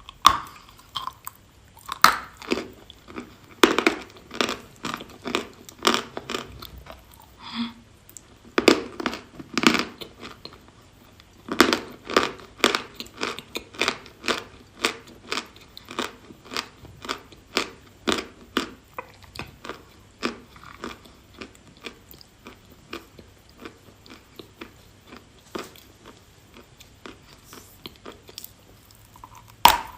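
Someone biting and chewing dry chalk close to the microphone. There are loud crunching bites, then a steady chewing crunch about twice a second that grows fainter toward the end.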